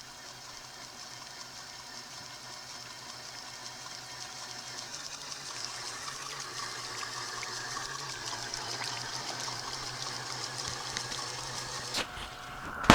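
Water splashing and lapping, growing louder about halfway through, under a faint steady hum. A sharp knock comes near the end.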